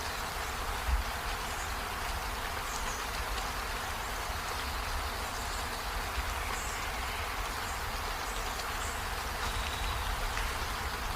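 Steady rain falling, an even hiss with a low rumble underneath and a few faint high chirps scattered through it.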